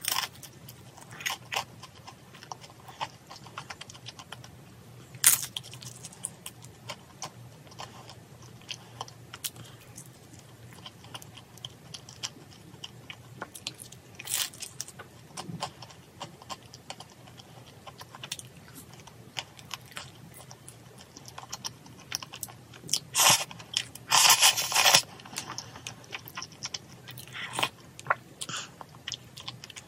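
Close-miked chewing and crunching of crisp fried dumplings (gun-mandu), with scattered sharp bites and a denser, louder run of crunches about three-quarters of the way through.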